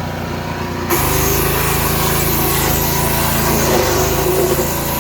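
Forest Master wood chipper's petrol engine running, and about a second in it starts shredding branches, a loud, continuous crunching noise over the engine that lasts the rest of the time.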